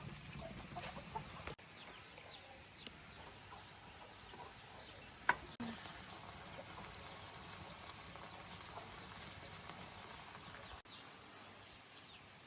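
Faint farmyard ambience: chickens calling now and then over a steady hiss, with a couple of sharp clicks. The sound breaks off abruptly a few times.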